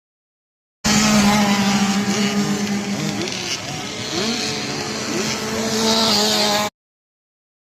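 Motorbike engines revving, their pitch rising and falling over a steady engine drone. The sound starts about a second in and cuts off suddenly.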